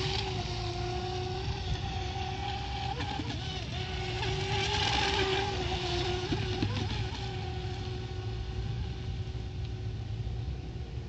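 Small RC boat's 3200 kV brushless electric motor whining at a steady high pitch as the boat runs on the water, the pitch briefly dipping and wobbling about three seconds in and again about six and a half seconds in, over a steady low rumble.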